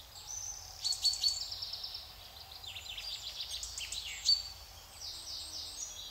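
Several birds singing together: rapid trills and quick chirps overlapping throughout, with a sharp, loud note just past four seconds in.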